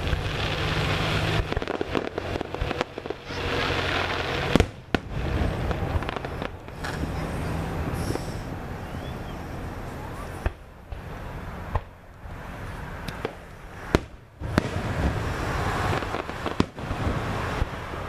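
Fireworks display: aerial shells bursting with several sharp bangs at irregular intervals, and continuous noise between the bursts.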